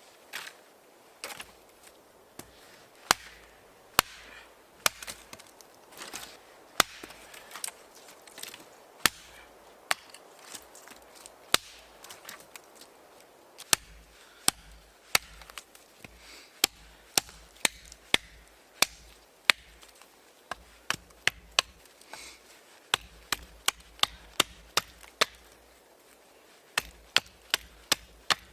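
Wood being chopped: a long run of sharp chopping strikes, roughly one to two a second, some coming in quick pairs.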